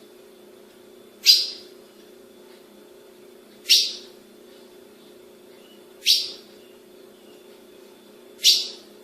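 A female ultramarine grosbeak (azulão) gives a short, sharp call four times, about every two and a half seconds, over a steady low hum.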